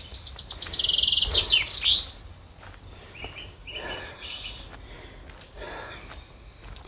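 A songbird singing: a fast, high trill with quick sweeping notes in the first two seconds, then shorter, lower trills about three to four seconds in.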